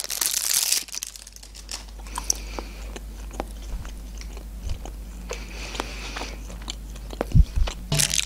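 Plastic crab-stick wrapper crinkling for about the first second, then close-up chewing of a crab stick with soft, scattered wet mouth clicks. A dull thump comes near the end, followed by brief plastic rustling again.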